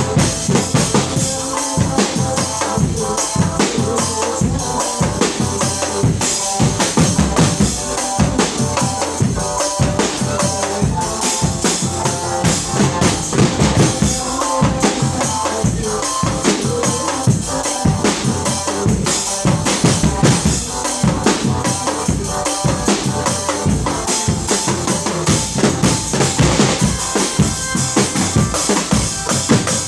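Live percussion-led music: fast, dense drumming with deep bass-drum hits, and a steady melody played over it.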